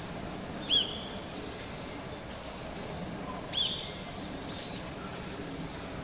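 A bird's short, sharp, high-pitched call, given twice, about a second in and again nearly three seconds later. Fainter high calls come in between, over a steady low outdoor background.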